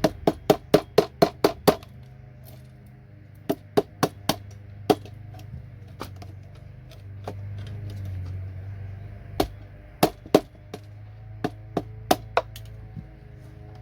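Sharp knocks of a tool striking a circuit board to knock components off. There is a rapid run of about eight strikes at the start, then scattered single and paired knocks, over a faint steady hum.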